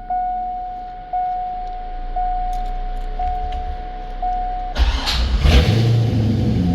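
The car's warning chime sounds about once a second, five times. Then, just under 5 seconds in, the starter cranks briefly, and the Corvette C5's 5.7-litre V8 catches and settles into a steady idle. This is the first start after the alternator replacement.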